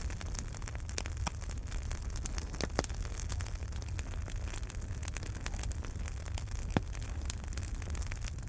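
Wood fire in a fireplace crackling: irregular sharp pops and snaps over a steady low rumble and hiss, with one louder pop late on.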